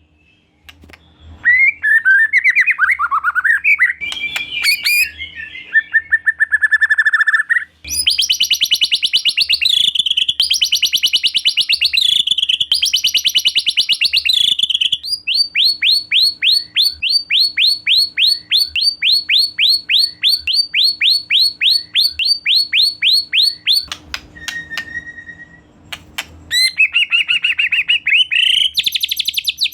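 White-rumped shama singing loud, varied whistled and warbled phrases. Midway it breaks into a long run of quick repeated notes, about four or five a second.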